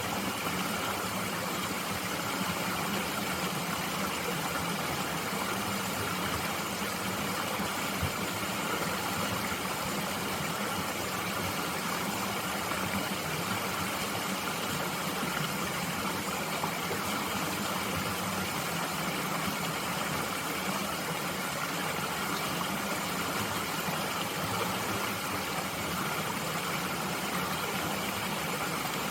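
Mountain stream flowing steadily, a constant rushing water sound.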